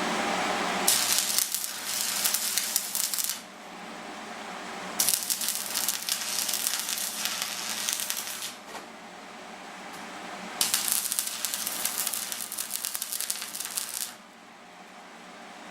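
Stick-welding arc on a 6013 rod crackling and sizzling in three runs of about three seconds each, with short quieter pauses between where the arc is broken.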